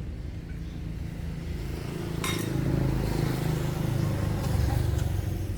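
Motor vehicle engine rumbling, growing louder in the middle, with one sharp clink a little over two seconds in.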